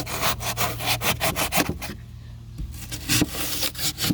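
Drywall knife sawing down through pour-in flotation foam in quick back-and-forth strokes, several a second, with a brief pause about halfway.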